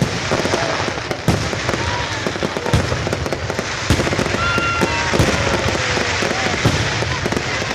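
Aerial fireworks going off: a dense, continuous crackle of many sharp bangs and pops, with a few brief gliding whistle-like tones near the middle.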